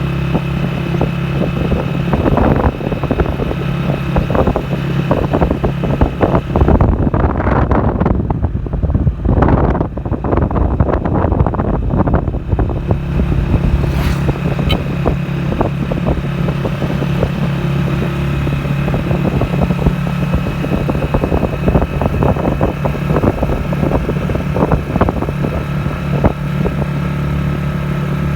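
A motor vehicle's engine running steadily, with wind buffeting and flapping on the microphone. For several seconds in the middle the engine tone fades under louder rushing noise, then returns.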